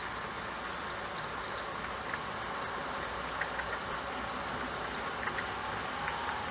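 Steady rain falling, an even hiss of many drops, with a few louder single drops standing out now and then.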